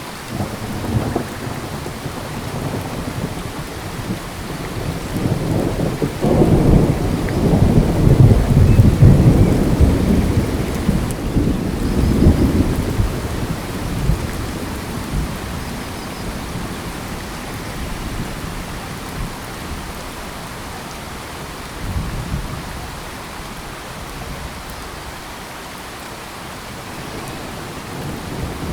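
Steady rain falling in a tropical forest, with a long roll of thunder that builds about six seconds in, peaks, and rumbles away over several seconds; a smaller rumble comes near the end.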